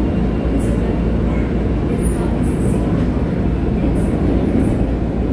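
Cabin noise inside a Seoul Metropolitan Subway Line 1 electric commuter train running at speed: a steady rumble of wheels on rail, heaviest in the low end, with a few brief faint high-pitched hisses.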